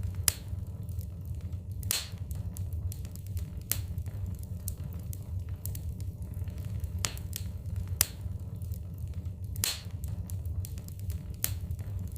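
Wood fire burning in a fireplace: a steady low flame rumble with irregular crackles and snaps of the burning logs, a few sharper pops standing out.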